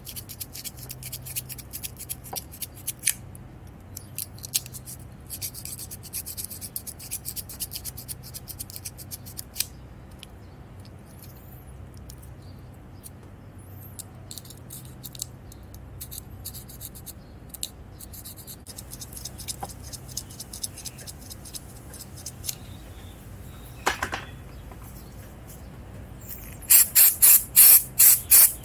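Fine, rapid scratching in stretches with pauses as the corroded contacts of a motorcycle ignition switch are sanded. Near the end comes a string of about six short, loud hissing spray bursts of contact cleaner.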